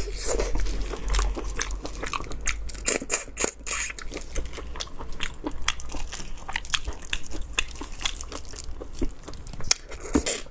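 Eating raw marinated shrimp: irregular crunching and cracking of shells between the teeth, with wet chewing. The loudest crunches come in clusters near the start and again near the end.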